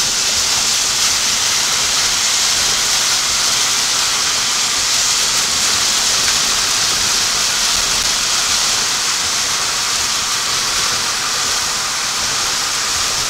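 Steady, unbroken hiss of water, bright and even throughout.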